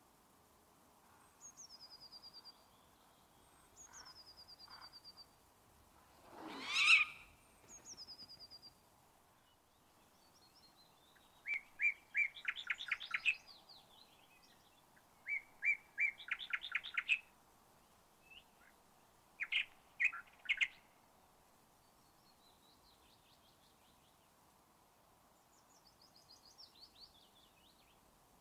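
Wild birds calling. Short, high, falling trills come every couple of seconds, with one louder rising sound about seven seconds in and fast runs of repeated chattering notes through the middle.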